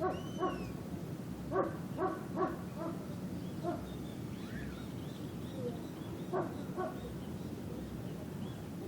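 Distant dogs barking off and on, in short runs of two or three barks, over a steady low background hum.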